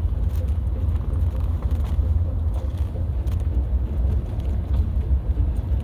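Car driving along a road: a steady low rumble of engine and tyre noise heard from inside the cabin, with a few faint ticks.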